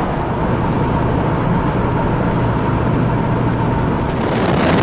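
Car driving at speed: steady road and wind noise with a low engine hum underneath.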